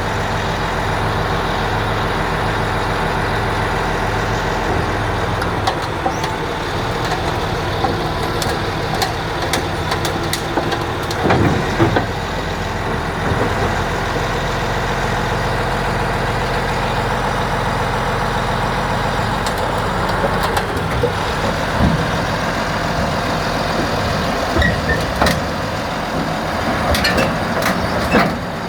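Large diesel engine of a Chetra T-25 crawler bulldozer running steadily, with occasional metallic clanks and knocks, more of them near the end.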